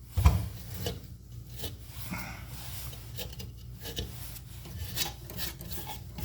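Handling noise from furnace motor parts being worked by hand: a knock about a quarter second in, then irregular scraping and rubbing.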